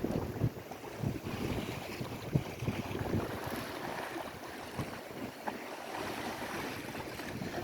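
Lake Erie waves, with wind gusting irregularly across the microphone.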